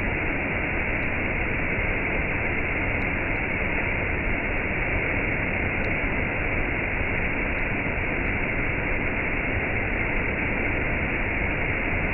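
Waterfall and cascade: falling water rushing steadily and evenly, with no pauses or changes.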